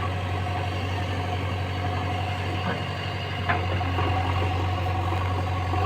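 Heavy diesel engine running steadily at low speed, a constant low hum, with a couple of faint clicks near the middle.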